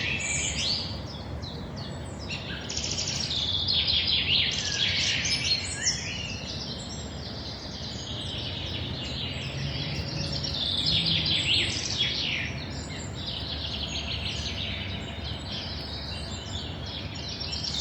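Several songbirds singing and chirping in rapid overlapping trills, over a steady low background hum of city noise.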